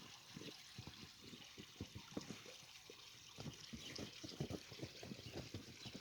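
Footsteps crunching through snow, faint and irregular, over a steady trickle of running water.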